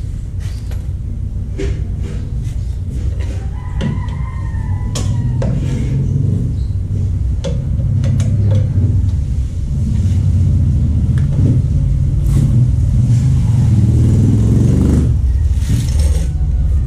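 A motor vehicle's engine running with a low, steady rumble that grows slightly louder, with scattered clicks and knocks.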